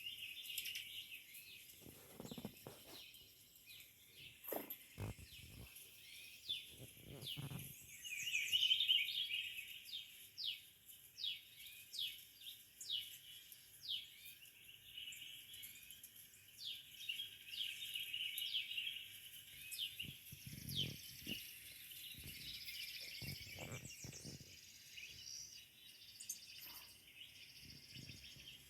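Small birds chirping and twittering, many quick high down-slurred chirps in irregular runs, over a steady high hiss; a few low bumps now and then.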